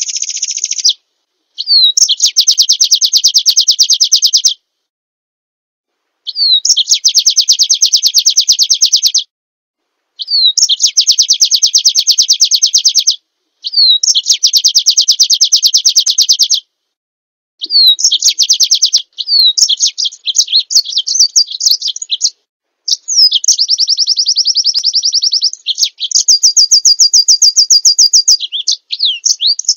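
Recorded small songbird song: a fast, high trill of about three seconds, each one opened by a short slurred note, repeated five times with clean silent gaps between. In the last third come more varied chattering phrases and a steady, even-pitched trill near the end.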